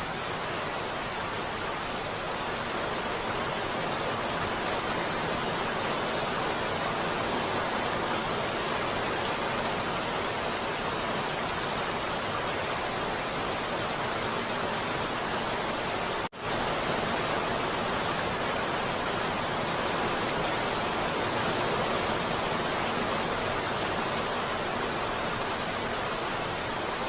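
Steady heavy rain hissing evenly, with a momentary dropout about sixteen seconds in.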